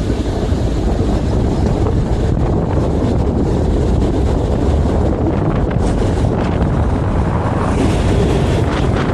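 Vario LF2R.E tram set running along the track: a steady deep rolling rumble with wind buffeting the microphone. The hiss brightens briefly twice, in the middle and near the end.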